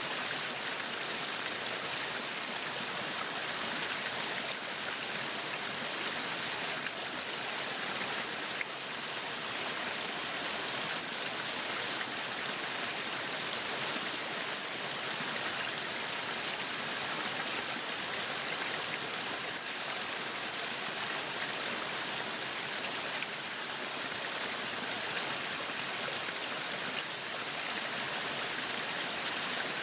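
Meat sizzling on a yakiniku grill: a steady hiss that goes on unbroken.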